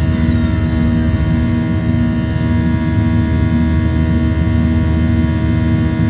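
Boeing 737's turbofan engines at climb thrust, heard inside the cabin: a steady buzz of many fixed tones over a low rumble. This is the engine buzz that the fan blades make when their tips run faster than sound at high power.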